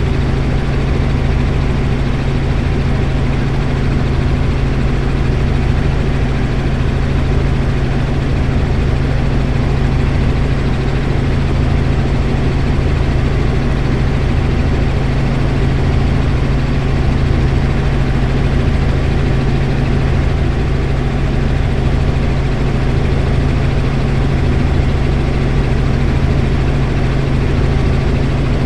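Helicopter in flight: a loud, steady drone of engine and rotor with a strong low hum.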